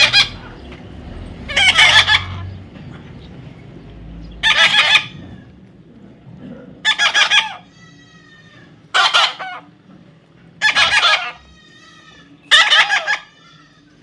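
Parrot giving loud, harsh squawks about every two seconds, about seven in all, with a few fainter whistled calls between them.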